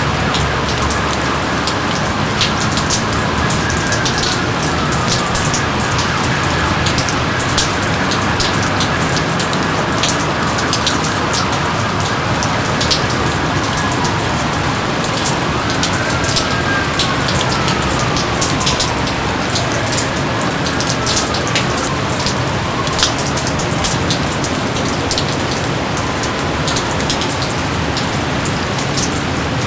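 Steady rainfall, with many close raindrops splatting sharply over the even hiss of the downpour.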